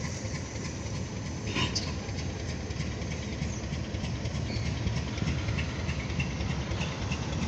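Covered grain hopper cars rolling on the track, a steady low rumble of the train.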